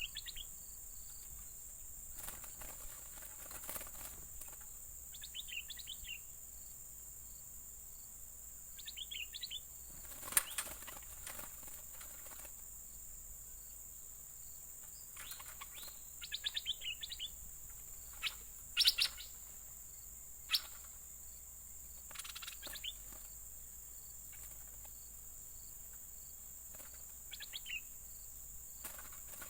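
Bulbuls calling in short bursts of quick chirps every few seconds, over a steady high insect drone. A few sharp clicks and short rustling sounds fall in between.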